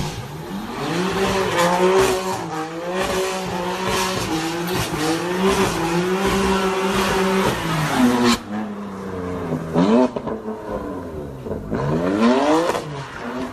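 Car engine held at steady high revs with tyre noise, as in a drift or burnout. About eight seconds in the engine eases off, then revs up twice more.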